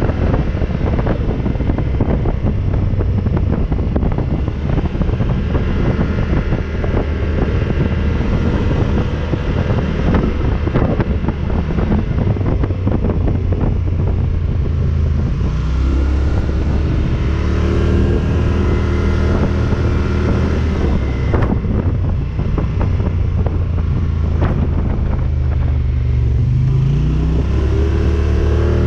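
ATV engine running while riding, with wind buffeting the microphone; the engine note climbs as it speeds up near the end, and there are a couple of sharp knocks in the second half.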